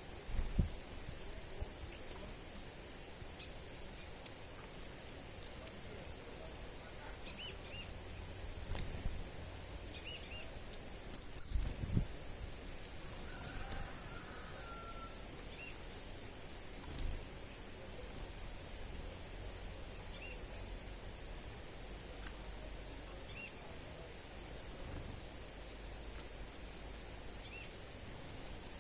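Outdoor ambience with small birds chirping: many short, very high calls over a steady high hiss, with a few louder chirps about a third and two-thirds of the way through.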